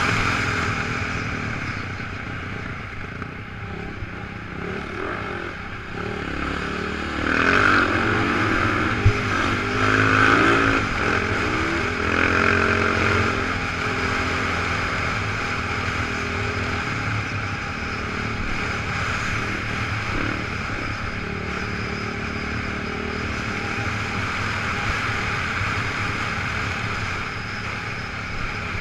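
Off-road motorcycle engine running while riding, with the engine note rising and falling several times in the middle as the throttle is worked.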